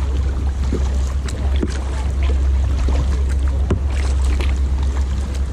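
Kayak paddling on a river: water splashing and dripping off the paddle in irregular short splashes, over a steady low rumble.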